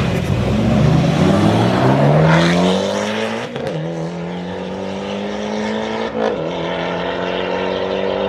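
A race car accelerating hard from a launch. Its engine pitch climbs steadily and drops twice, about three and a half and six seconds in, as it upshifts through the gears.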